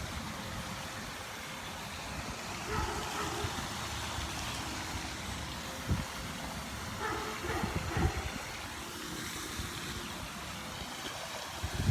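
Steady outdoor background noise, an even hiss, with a single sharp knock about six seconds in and a few faint scuffs of movement.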